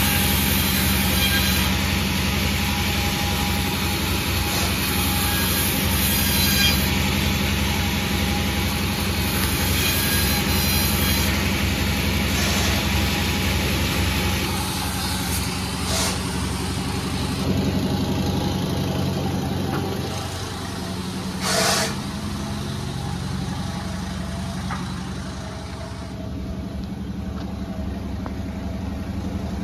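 Sawmill engine running steadily, noisier over about the first half, with one brief sharp sound about 21 seconds in.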